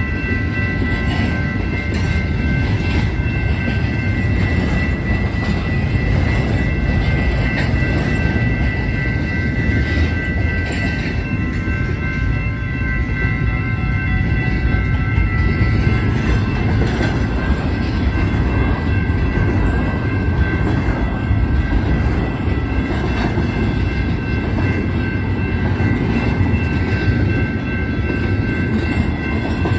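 Norfolk Southern freight train rolling past a grade crossing: a steady heavy rumble of the cars with wheels clattering over the rails, and steady high-pitched ringing tones above it.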